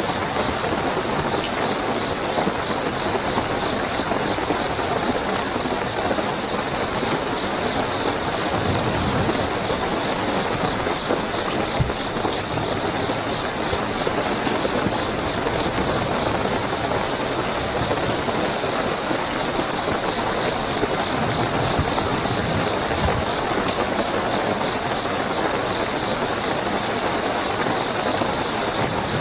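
Steady rainfall with a continuous high-pitched cricket chirping over it.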